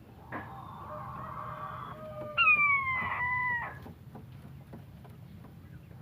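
Wild quail calling: one loud, drawn-out, slightly falling call lasting just over a second, starting about two and a half seconds in.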